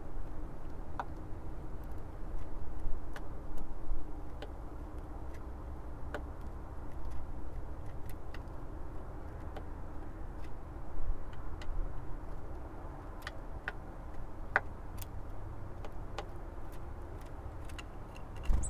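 Eurasian nuthatch pecking and tapping at a feeder: sharp, irregular taps, a few clustered together, over a low steady rumble.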